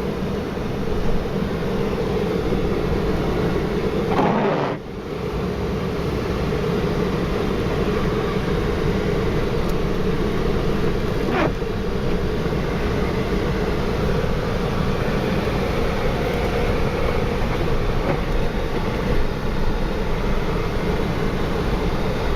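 Four-wheel-drive vehicle driving through a snow storm: steady engine and tyre rumble, with a brief dip in the noise about four and a half seconds in.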